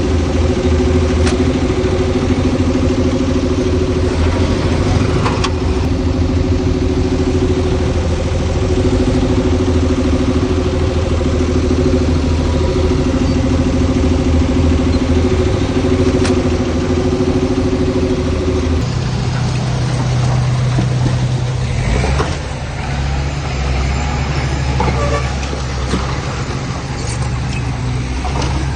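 Heavy diesel engine of earthmoving machinery running steadily, with a pitched engine note that changes suddenly about two-thirds of the way in to a different, lower engine note, with a few scattered knocks.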